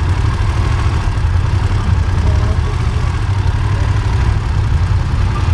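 Motorcycle engine running steadily, a low rumble that stays even throughout.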